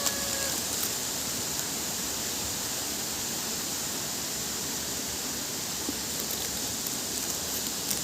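Steady, even hiss of outdoor background noise, with the tail of a short whistled call fading out in the first half second.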